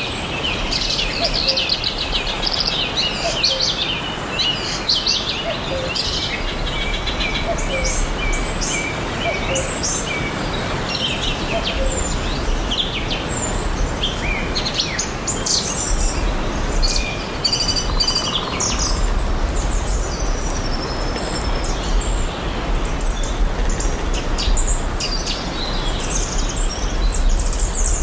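Several songbirds chirping and trilling in overlapping short phrases, over a steady hiss of background noise and a low rumble that comes and goes.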